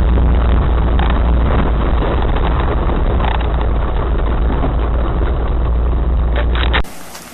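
Off-road vehicle engine running under load with a steady low drone, along with rattles and knocks from the vehicle working over rough ground. Near the end it cuts off abruptly, leaving a much quieter, even hiss.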